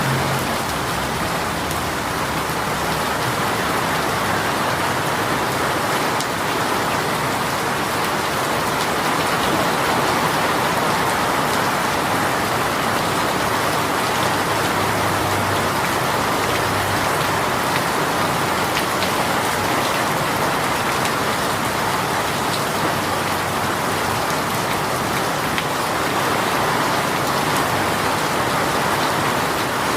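A heavy rain shower falling steadily: a dense, even hiss of raindrops.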